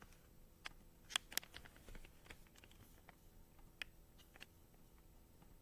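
Faint, scattered clicks and taps, a few sharp ones about a second in, over quiet room hiss.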